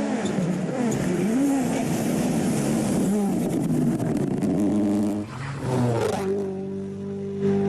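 Rally car engine revving hard, its pitch rising and falling through throttle lifts and gear changes, then a quick climb and a steady held note over the last second or so.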